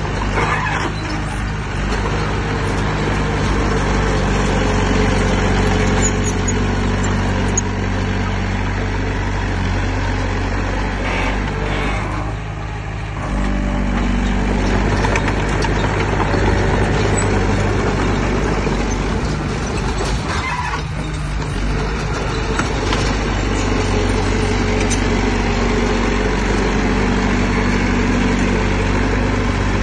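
Heavy diesel engine of earthmoving machinery running steadily, easing off briefly about twelve seconds in and picking back up.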